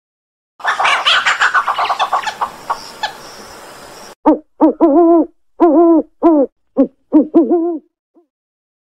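Little owl calling: a rapid run of notes that slows over the first few seconds, then a series of about ten short hoots, each rising and falling in pitch.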